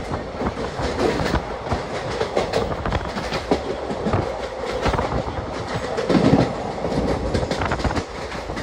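Passenger express train running at speed, heard on board: a steady rumble of wheels on the rails with frequent short knocks, and a louder low rumble about six seconds in.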